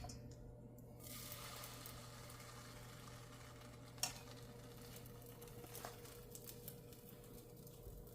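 Pancake batter sizzling faintly in a hot pan, over a steady low hum, with a light click about four seconds in.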